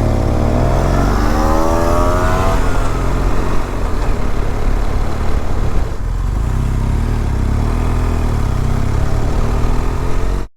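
Motorcycle engine pulling away, its pitch rising over the first couple of seconds, then running steadily at speed, with a second gentler rise near the end before the sound cuts off abruptly.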